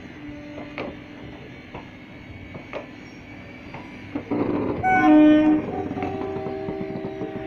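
Railway coaches rolling past, wheels clacking over rail joints at short intervals. About five seconds in a train horn sounds loudly for about half a second, and steady horn-like tones carry on more quietly after it.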